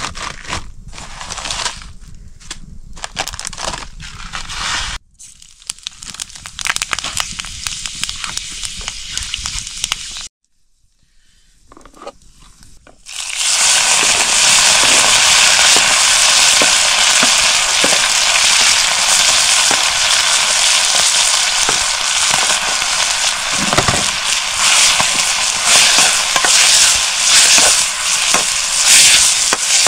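Crackling with light clicks, then after a short quiet gap a loud, steady sizzle of food frying in hot oil starts about a third of the way in and carries on.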